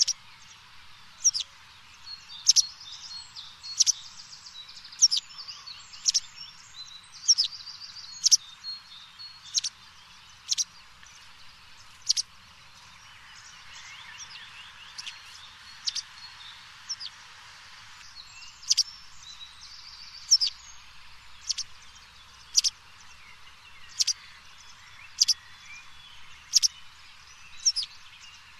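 Birds calling outdoors: one bird repeats a short, sharp chirp about once a second, over softer chirps and trills from other birds.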